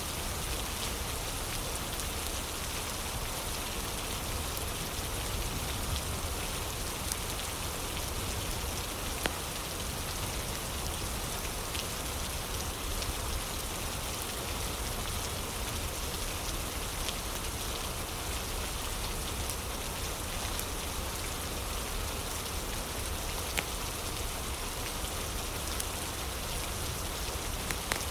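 Steady rain falling, an even hiss of drops, with a few sharp crackling pops from a wood fire scattered through it.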